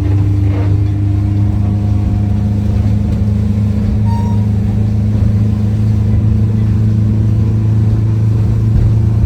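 Fishing boat's engine running steadily as the boat comes back to its mooring in the harbour.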